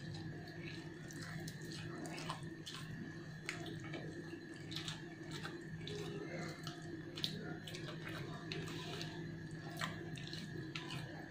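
Close-miked eating: chewing and wet mouth clicks and smacks as rice and beef rendang are eaten by hand, with short squishy clicks scattered irregularly throughout. A steady low hum runs underneath.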